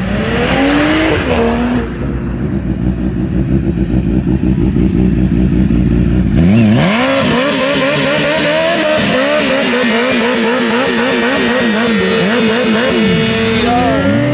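Motorcycle burnout: the engine is held at high revs, its pitch wavering, and about six seconds in a loud hiss of the spinning rear tyre joins while the revs rise and fall again and again.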